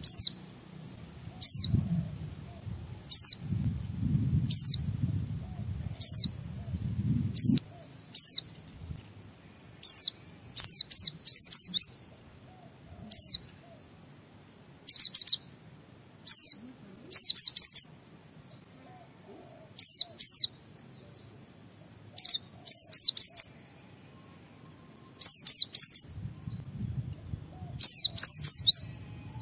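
White-eye (pleci) singing in short, high chirps that sweep downward. They come singly about every second and a half, then in quick runs of two to four notes. A low rumble sits underneath at the start and again near the end.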